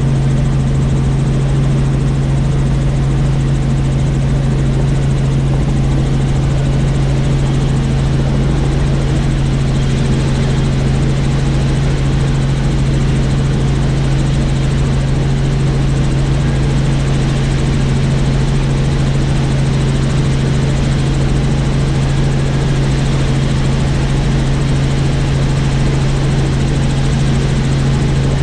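Helicopter in steady flight: a constant low hum from the engine and rotor over a steady rushing noise.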